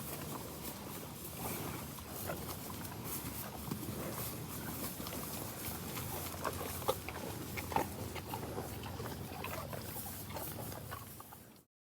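Cows eating apples and grazing: irregular crunching and snapping of chewed apples and torn grass, continuing until the sound stops abruptly near the end.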